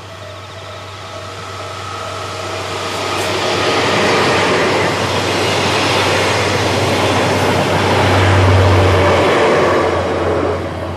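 Locomotive-hauled train with DE10 diesel-hydraulic locomotives and 14 series passenger coaches passing close by: the rumble of the train on the rails swells over about four seconds, holds, then drops away near the end. A steady low hum runs underneath, loudest about eight seconds in.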